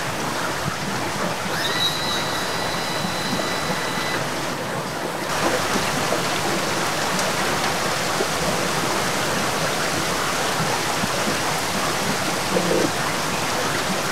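Heavy rain pouring down, a steady hiss of rain falling on water and pavement, growing a little louder and hissier about five seconds in. A faint high steady tone sounds for about two seconds near the start.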